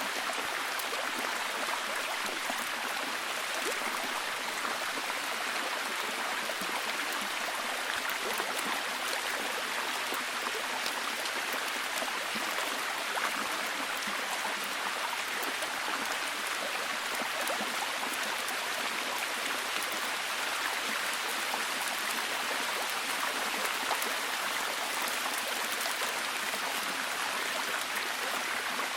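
Steady, heavy rain: an even hiss of water with many fine drop ticks in it, holding the same level throughout.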